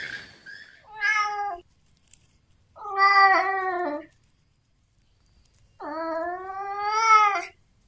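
A kitten meowing three times, each a short pitched call, the last one longer and rising slightly in pitch.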